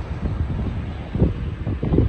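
Wind buffeting the microphone in uneven gusts, over the low rumble of an airliner's jet engines.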